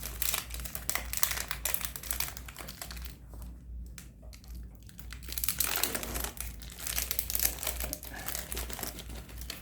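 Disposable syringe's plastic packaging being opened and handled: irregular crinkling and crackling, thinning out for a couple of seconds in the middle before picking up again.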